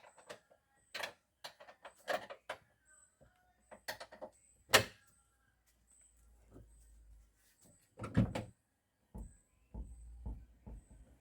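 Hands-on work at a car's rear door and its hinge: a string of short clicks, taps and knocks, the loudest a sharp knock about five seconds in and a cluster of knocks about eight seconds in.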